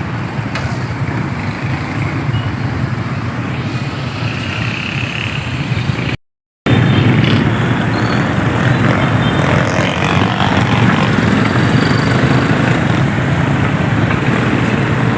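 Motorcycle ride noise: engine, wind and road noise running steadily. It breaks off abruptly for a split second about six seconds in and comes back a little louder.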